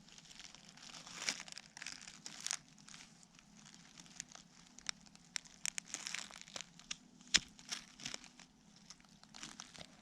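Faint, irregular rustling and crackling of dry forest litter and plant material being handled, with scattered sharp clicks and one louder snap about seven seconds in.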